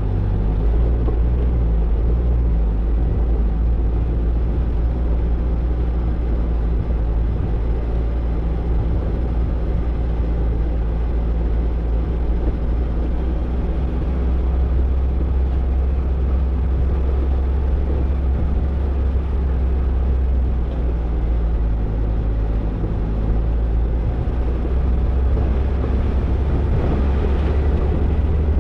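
Toyota Tercel 4WD wagon being driven along an off-road trail: the engine runs steadily under way, with continuous driving noise.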